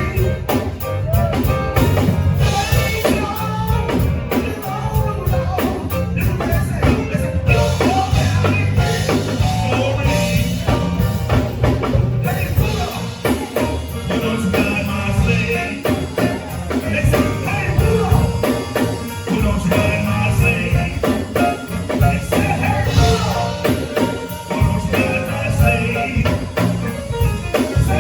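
Live band playing a gospel-style song: drum kit and bass keeping a steady beat under other instruments, with some singing.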